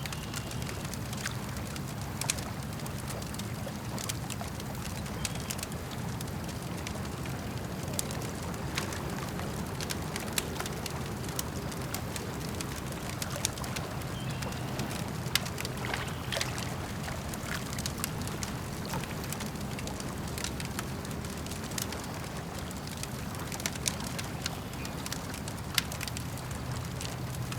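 Campfire crackling, with sharp pops at irregular intervals, a few louder than the rest, over a steady low wash of lake water lapping.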